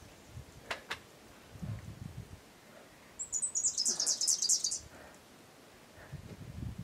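A bird chirping in a fast, high trill for about a second and a half, midway through, with faint low rumbles around it.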